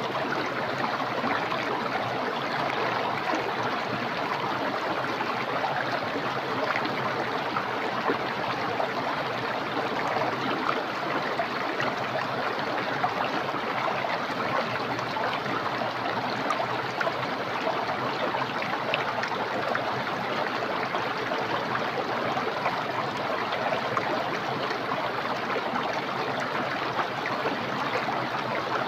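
Small, clear, fast-flowing stream running steadily.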